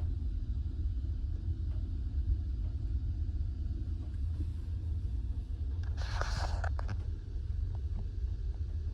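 Steady low rumble of a car ferry's engines under way, with a brief hissing rush about six seconds in.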